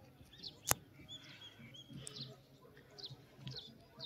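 Small birds chirping faintly: short, quick, falling chirps repeated again and again. A single sharp click sounds about three-quarters of a second in.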